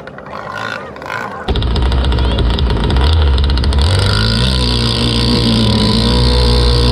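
Boat motor running on the water, loud from about a second and a half in. A low hum and a steady high whine sit underneath, and the pitch dips and rises partway through.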